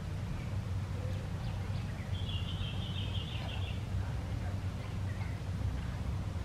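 Outdoor ambience with a steady low rumble, and a bird's rapid chattering call lasting about a second and a half, starting about two seconds in.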